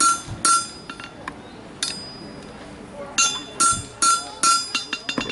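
Blacksmith's hammer striking steel on an anvil, each blow ringing, while punching the nail holes in a horseshoe. About seven strikes: a pair, a single one, then four about half a second apart near the end.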